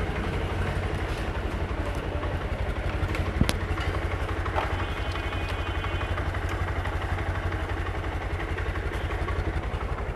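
Motorcycle engine idling steadily just after an electric start, with a sharp click about three and a half seconds in.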